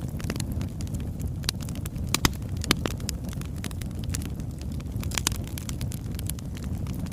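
Wood fire burning: logs crackling and popping in irregular sharp snaps, over a steady low rumble of the flames.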